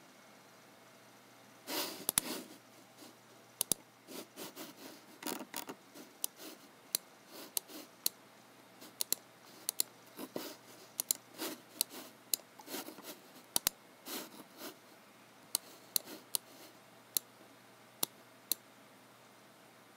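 Scattered sharp clicks of a computer mouse and keyboard being used at an irregular, unhurried pace, about one or two a second, with softer short rubbing sounds between them; they start about two seconds in and stop near the end.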